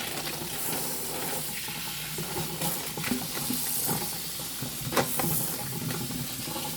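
Food sizzling in a frying pan, with a few sharp clinks of a utensil against the pan, the loudest about five seconds in.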